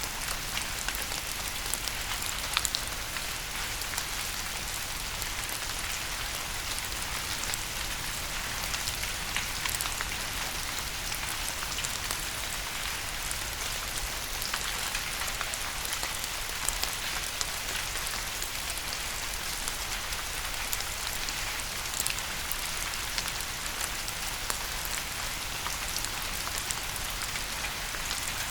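Steady rain falling, a continuous hiss with many small drop ticks and an occasional louder drop.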